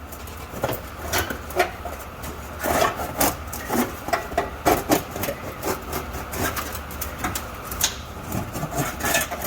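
Thin sheet-metal exhaust heat shield being pulled and bent out of the way by hand, giving irregular scraping, crinkling and knocking noises throughout.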